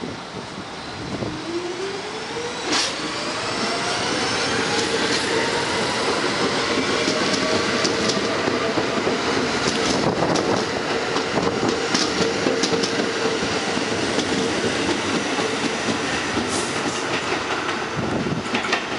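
R-46 subway train accelerating away: the General Electric traction motors' whine rises in pitch over the first few seconds and then holds a steady tone, over loud rolling wheel noise with sharp clicks of the wheels crossing rail joints.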